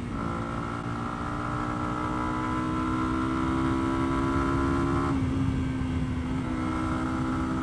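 Lexmoto Venom 125's single-cylinder 125cc four-stroke engine running under load while riding, its note climbing slightly and steadily. About five seconds in the note drops back as the throttle eases, then picks up again a second or so later. A low rumble of wind and road noise runs underneath.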